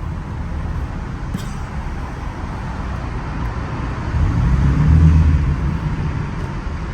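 Car engine and road rumble, with an engine swelling louder for a second or so about four seconds in.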